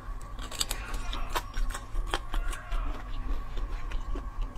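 Close-miked chewing of a chewy meat-and-tendon snack, with irregular wet mouth clicks and smacks.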